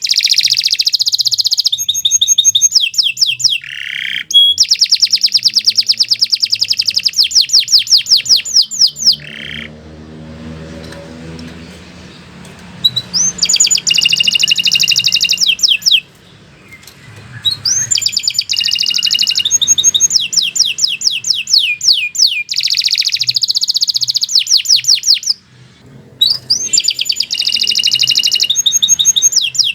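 Domestic canary singing long, fast trills of rapid repeated high notes, one rolling phrase after another, with a break of a few seconds near the middle.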